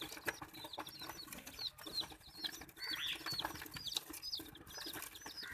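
Baby chicks peeping: many short, high calls that bend downward, several a second and overlapping, with scattered faint clicks.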